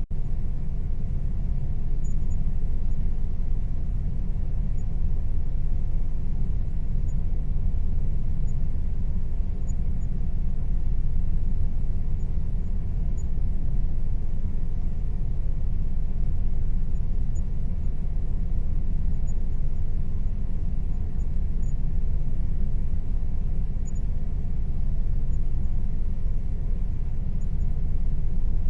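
Air conditioner running steadily: an even low rumble with a faint steady hum on top, unchanging throughout.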